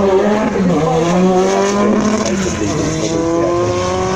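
Mid-engined Renault 5 Turbo Group B rally car's engine running at raised revs; the pitch dips a little under a second in, then holds nearly steady and creeps slightly upward.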